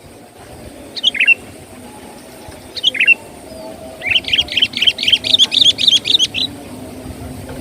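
Sooty-headed bulbul (kutilang) calling: two short chirps, then a fast run of notes lasting about two and a half seconds. A low, steady rumble runs underneath.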